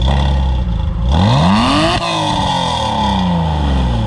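Porsche Boxster S flat-six with a modified free-flowing exhaust idling, then revved once about a second in: the pitch climbs for about a second, then falls back slowly to idle.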